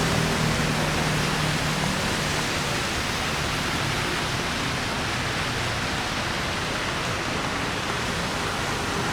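Steady hiss of falling rain, an even wash of noise without distinct hits or pauses.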